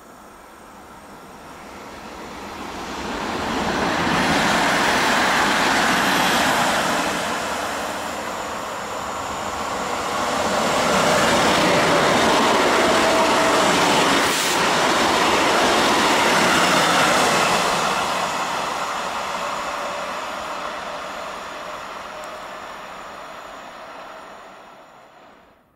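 PolRegio EN63A (PESA Elf) electric multiple unit passing at speed: wheel and rail noise that builds as it approaches, is loudest as the train goes by, then fades away.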